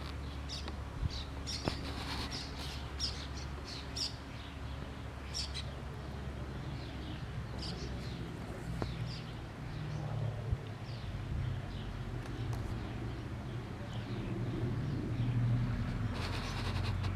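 Small birds chirping in quick short notes, busiest in the first few seconds and sparser after. Underneath is a steady low rumble that grows louder near the end.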